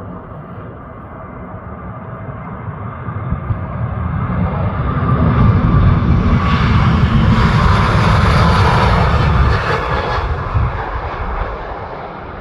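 Airbus A321LR jet airliner taking off and passing by. Its engine noise builds, is loudest from about six to ten seconds in, then fades, with a whine that drops in pitch as it goes past.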